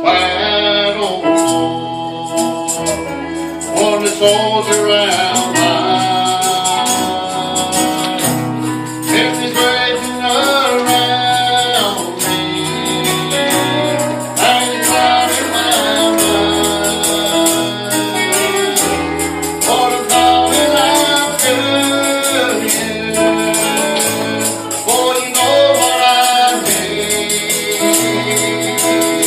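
Congregational gospel singing with a band: a steady bass line under the voices and a tambourine keeping a fast, even beat.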